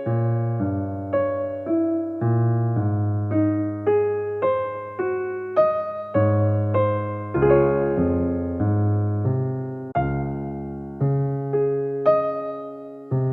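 Soft background piano music: notes and chords played one after another at an easy pace, each struck and dying away.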